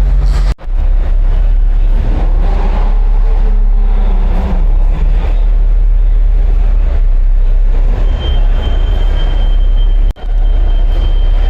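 Car engines and exhausts running with a loud, deep rumble. The sound drops out abruptly twice, about half a second in and near the end, and a thin steady high tone comes in for the last few seconds.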